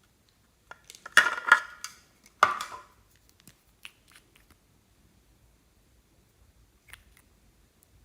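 Slime being handled and mixed by hand: two loud bursts of sticky crackling and clicking, about a second in and again about two and a half seconds in, then a few faint scattered clicks.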